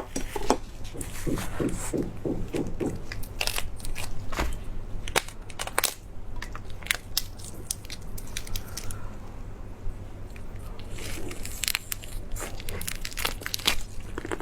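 Close-miked mouth sounds of a person eating: bites, chewing and sharp wet clicks, with a quick run of chewing pulses in the first few seconds, over a steady low hum.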